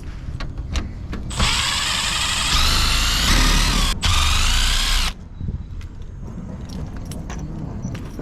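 Power drill running a rotary dryer-vent cleaning brush, a loud whine lasting about four seconds that rises in pitch partway through. It cuts out for an instant before running again and stopping abruptly. Light clicks and knocks from handling come before and after.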